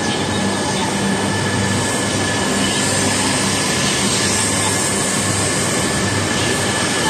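E3 series Shinkansen train departing the platform and moving past: a steady rumble of running noise with a low hum and a thin, steady high whine, growing slightly louder as it gathers speed.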